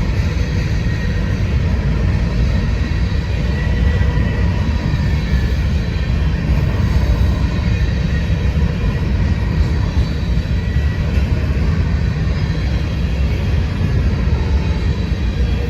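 A train rolling past: a loud, steady rumble of wheels on rail.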